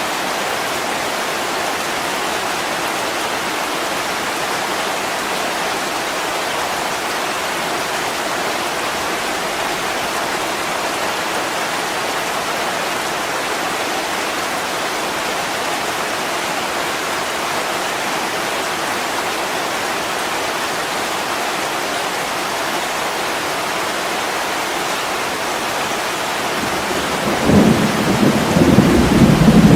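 Heavy rain pattering steadily on a window pane. Near the end a low, rolling rumble of thunder comes in and swells over the rain.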